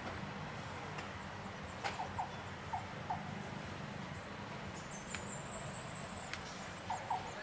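Short chirp-like animal calls in pairs, a few times over a steady low background hum. A thin high-pitched tone sounds for about a second midway through.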